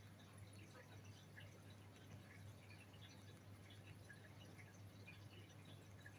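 Near silence with faint, scattered tiny wet clicks: a green-cheeked conure nibbling at a blueberry with its beak. A low steady hum sits underneath.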